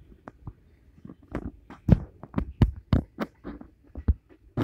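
Freight cars rolling past with a run of sharp, irregular knocks as the wheels go over rail joints.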